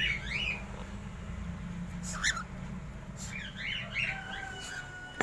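Aviary birds, cockatiels among them, calling in clusters of short rising-and-falling chirps over a steady low hum. About four seconds in, a rooster starts a long, drawn-out crow.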